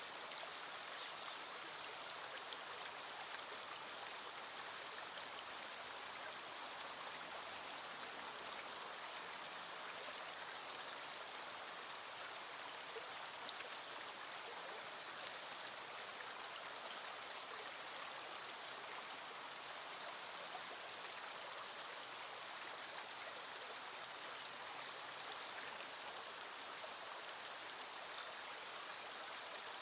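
Small stream flowing over stones, a steady, even rush of running water.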